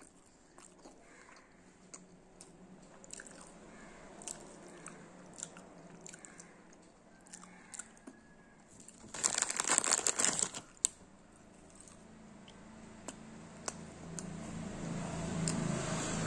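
Close-up mouth sounds of chewing sweets, with small wet clicks. About nine seconds in comes a loud crackling burst lasting a second and a half, and near the end the chewing grows louder and fuller.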